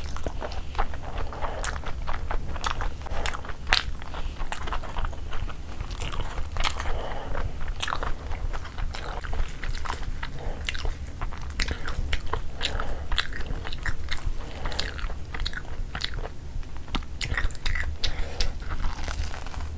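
A person chewing and biting food close to the microphone, with many short sharp crunches and clicks from mouthfuls of fried puri and curry.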